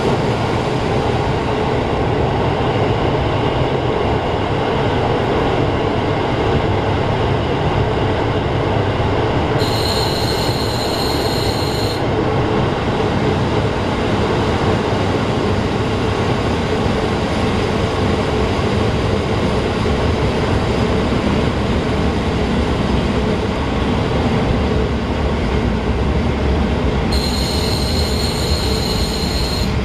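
Diesel local train running on the rails, heard from inside the carriage as a steady rumble. A high squeal from the running gear sets in twice, about ten seconds in for two seconds and again near the end, starting and stopping sharply.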